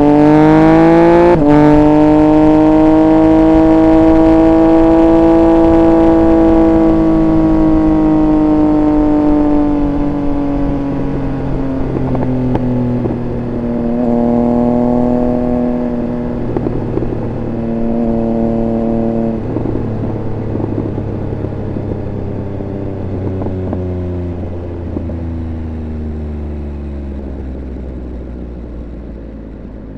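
Triumph Speed Triple 1200 RR's inline three-cylinder engine revving up under hard acceleration, with a quick upshift about a second and a half in. It then holds high revs and slowly eases off. Through the middle come two short bursts of throttle as it slows, and the revs and level fall away toward the end.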